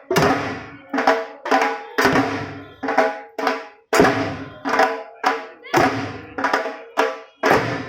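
Dhak, the big Bengali festival drum, beaten with sticks in a fast, steady rhythm, each stroke ringing out with a pitched boom.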